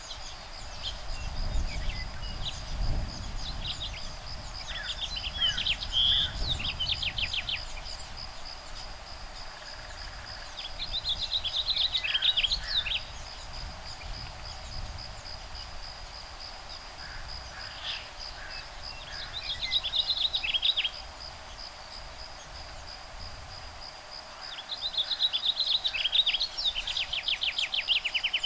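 Woodpeckers calling back and forth in four bursts of rapid chattering notes, each a couple of seconds long and several seconds apart, over a steady high insect buzz. Low wind rumble on the microphone in the first several seconds.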